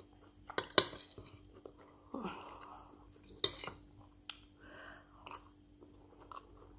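Close-up chewing of a mouthful of rice and stew, with a few sharp clicks of a metal spoon against the plate, the loudest about a second in and another about three and a half seconds in.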